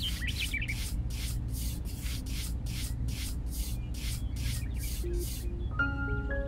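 Small metal trowel scraping across fine sand in short, even strokes, about three a second, as the sand is smoothed flat. The scraping stops about five and a half seconds in, and a mallet-percussion tune begins.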